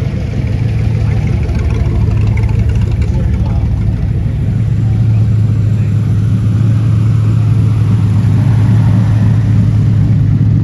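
A classic car engine running with a steady low rumble, getting a little louder over the first couple of seconds and then holding.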